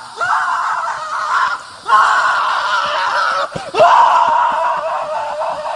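Loud screaming in about four long cries, each a second or more, with short breaks between.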